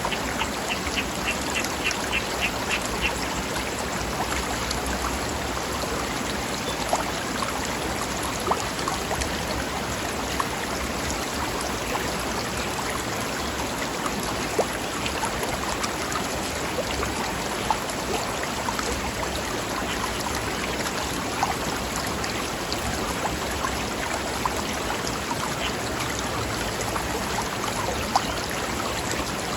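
Mountain stream rushing and splashing over rocks, a steady wash of water. For the first three seconds or so a bird gives a quick run of about nine short high chirps, and starts another run at the very end.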